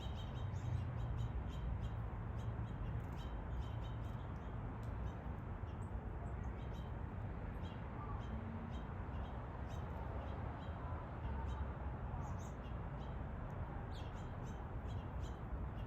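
Outdoor background: a steady low rumble with faint, scattered bird chirps and calls.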